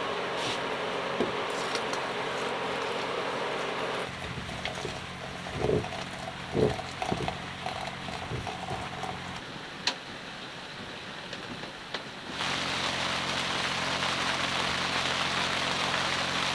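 Rain falling, heard as a steady hiss. It changes abruptly between shots: a quieter middle stretch carries a few knocks and thuds, and near the end a louder, brighter downpour hiss cuts in.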